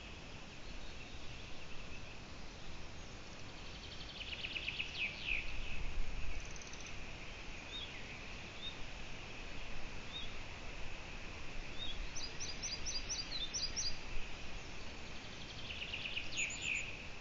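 Small songbirds singing over a steady high hiss: a fast, falling trill about four seconds in and again near the end, with scattered short chirps and a quick run of high thin notes between. A brief low rumble comes about six seconds in.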